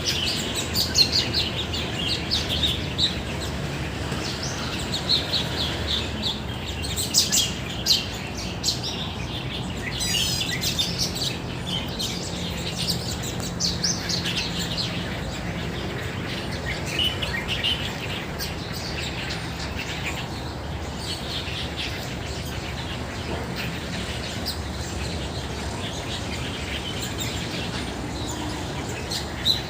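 Many birds chirping and singing together in short, quick calls, busiest in the first half, over a steady low background rumble.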